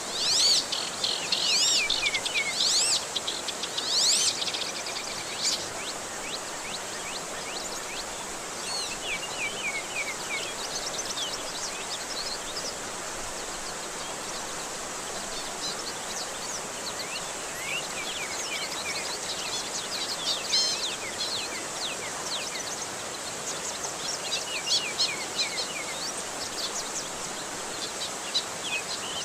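Steady rush of running water, with birds chirping over it in quick repeated calls that are loudest in the first few seconds and come back in scattered bursts later.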